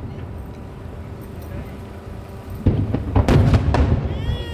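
Aerial fireworks shells bursting: a low rumble with crackle, then a quick cluster of four or five loud booms a little past halfway.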